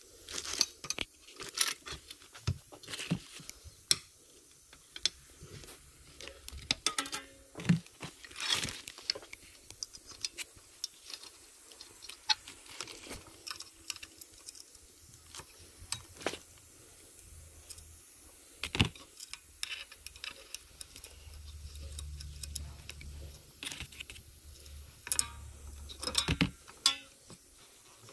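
Scattered sharp clicks, clinks and knocks of metal parts and hand tools being handled while a car pedal box is reassembled, with a low hum for a few seconds near the end.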